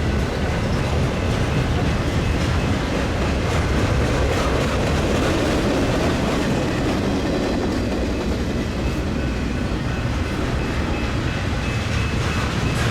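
Mixed freight train rolling past, a steady, unbroken noise of the cars running on the rails.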